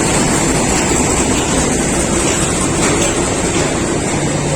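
Passenger train rolling into a station platform: a steady, loud rumble of the train and its wheels on the track.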